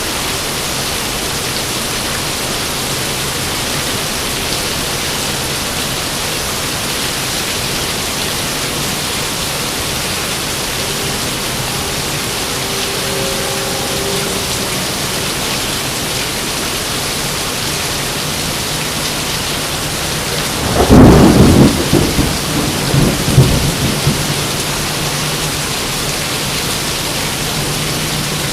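Steady rain falling, with a thunderclap about three-quarters of the way through: a sudden loud crack followed by a few seconds of uneven rumbling that dies away.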